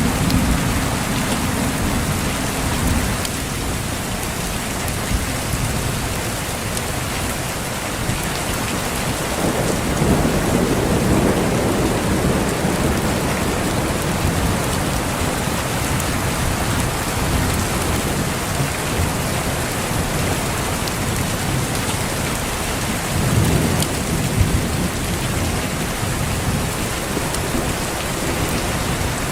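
Steady heavy rain falling, with low rolls of thunder that swell up around ten seconds in and again about twenty-three seconds in.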